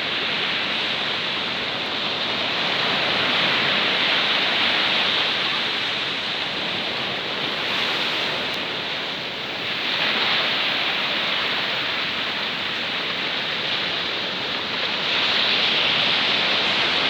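Steady rush of water where a small stream falls into the sea, swelling and easing a little every few seconds.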